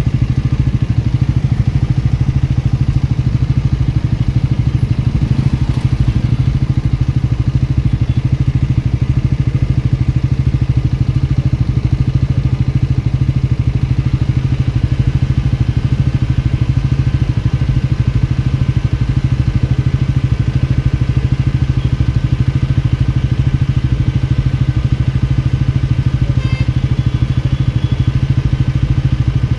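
A motorcycle engine running steadily and loudly, its note holding level with no revving up or down.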